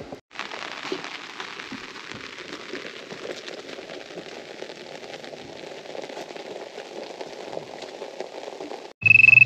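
Steady rain falling, a dense even patter of drops that cuts in sharply just after the start and cuts off about nine seconds in.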